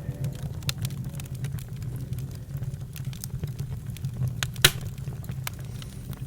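Campfire crackling: scattered snaps over a steady low rumble, with one sharp, loud pop about three-quarters of the way through.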